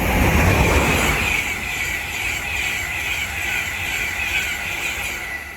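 LNER InterCity 225 set, a class 91 electric locomotive with its coaches, passing through the station. Wheels on rail make a loud rush that peaks about a second in and then eases off, with a high ringing sound on the rails repeating about three times a second.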